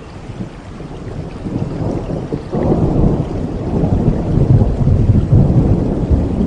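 Thunder rolling over steady rain: a low rumble builds about a second and a half in, turns suddenly louder about a second later, and keeps rumbling heavily.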